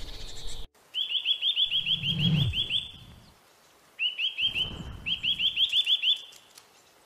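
A songbird singing two phrases of rapid, evenly repeated high notes, each phrase about two seconds long, with a low rumble under each phrase.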